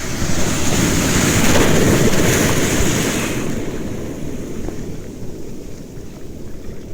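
Atlantic surf: a wave breaking and washing in, rising to a loud rush about two seconds in and then slowly fading. Wind buffets the microphone.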